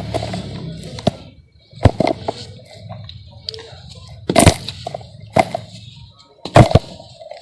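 Dry sand-cement chunks being crushed and crumbled by hand. Sharp cracks come about two seconds in, halfway through and near the end, with gritty crunching and crumbling between them.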